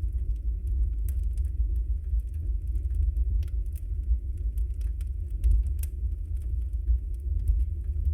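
Wood fire burning in a fireplace: a steady low roar of the flames with frequent small crackles and pops from the burning logs, a sharper pop about six seconds in.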